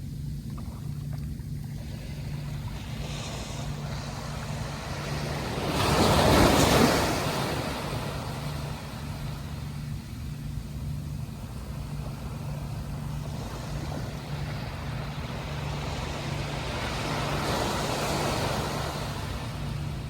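Sea waves breaking: one loud wave crashes about six seconds in and a softer one swells near the end, over a steady low rumble.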